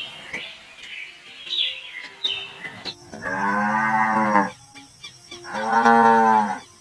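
Cow mooing twice: two long, low calls, the first about three seconds in and the second about two seconds later.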